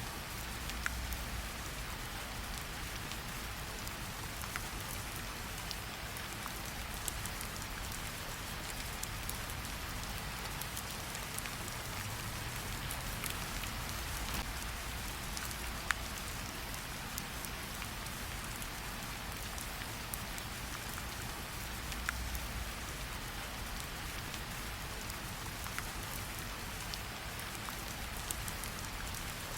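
Steady rain falling, with scattered sharp pops from a crackling campfire.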